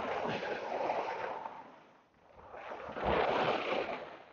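Skis scraping and chattering across hard ice in two turns, each a swelling, rushing scrape, with a brief lull between them. The loud scrape is the sign of skiing on ice rather than snow.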